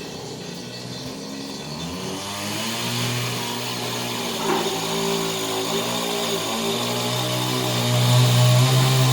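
Chainsaw engine running steadily, slowly rising in pitch and getting louder toward the end, with one brief knock about halfway through.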